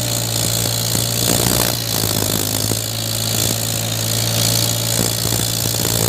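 Mahindra 475 tractor's diesel engine running at a steady speed, with a few brief knocks about a second and a half in.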